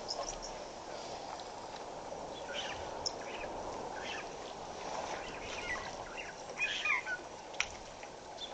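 Birds giving short scattered chirps over a steady background hiss, with a brief flurry of calls about seven seconds in and a couple of sharp clicks.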